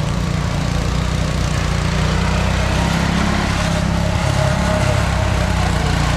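Riding lawn mower engine running steadily, without clear revving.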